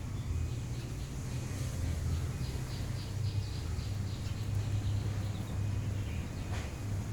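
Lovebirds chirping: a quick run of short high calls, about four a second, starting about two seconds in, over a steady low rumble. A single sharp click near the end.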